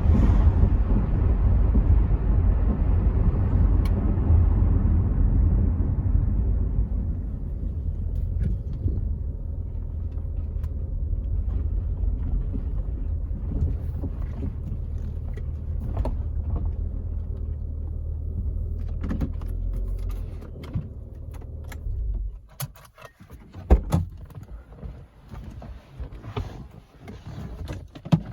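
Rover 75 V6 estate heard from inside the cabin as it slows, its engine and road noise gradually dying away. About 22 seconds in, the engine's low hum stops suddenly, as when the engine is switched off. Scattered clicks and knocks follow, with one loud thump a little later.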